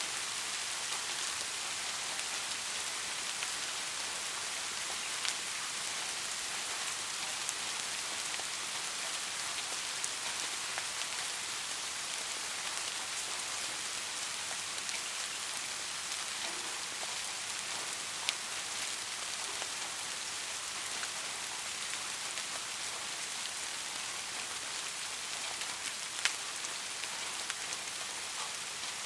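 Steady rain falling, an even hiss with scattered distinct drop ticks, a few sharper ones standing out.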